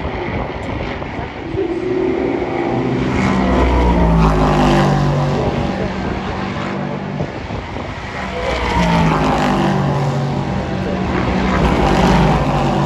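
Race cars passing on a circuit, their engine notes rising and falling as they go by, with two swells in loudness: one about four seconds in and another near the end.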